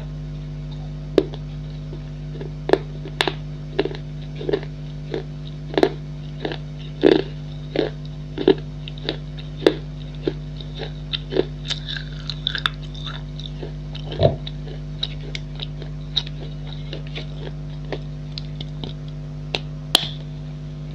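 Baked clay being bitten and chewed: irregular sharp, dry crunches, about one or two a second, over a steady electrical hum.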